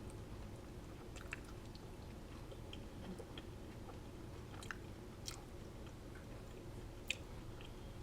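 A person chewing a mouthful of bean taco close to the microphone: soft chewing with scattered sharp mouth clicks and smacks, the loudest about seven seconds in, over a steady low hum.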